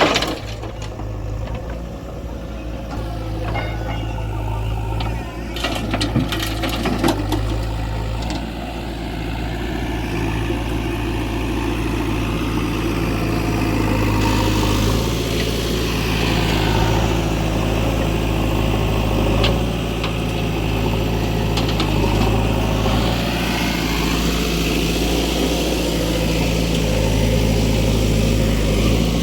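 Diesel engines of a backhoe loader and a tractor running steadily, with a few clanks about six to seven seconds in; the engine sound grows louder from about eight seconds in.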